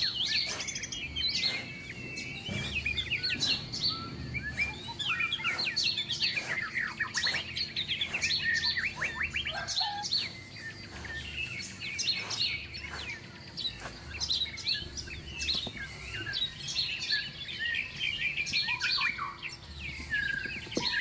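Small songbirds chirping and twittering in a busy chorus of many short, quick calls, with repeated short scraping strokes, likely a small hand trowel digging into sand.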